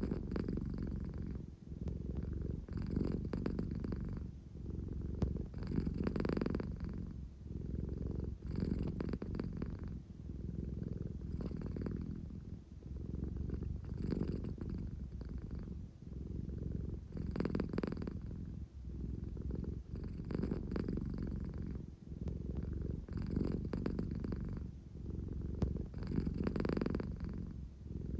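American Shorthair cat purring steadily, the purr swelling and easing with each breath about every three seconds. It is the purr of a sleepy cat wanting affection.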